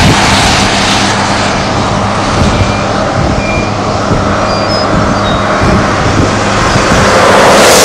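Car driving at road speed: steady road and wind noise with a low, even engine hum, swelling louder near the end.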